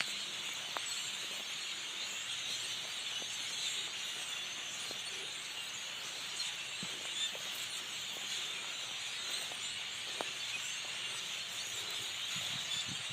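A dense chorus of many birds calling at once, a steady high-pitched wash of chattering with no single song standing out.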